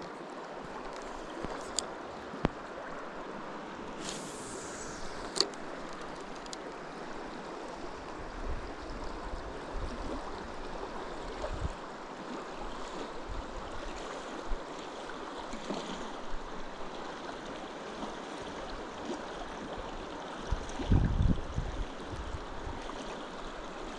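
River water rushing steadily, with a few small clicks, a brief falling swish about four seconds in, and some low bumps near the end.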